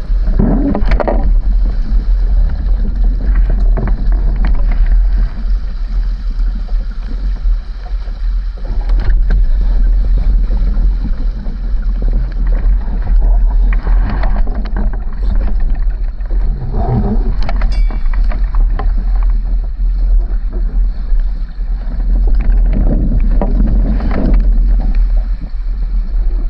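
Heavy wind buffeting the microphone over water rushing past a sailing dinghy's hull: a loud, steady low rumble that swells and eases with the gusts.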